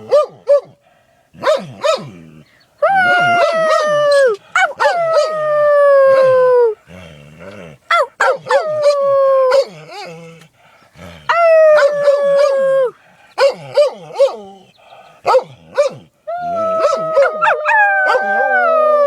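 A dog howls in about five long calls, each sliding down in pitch as it fades, with short sharp sneezes between the howls.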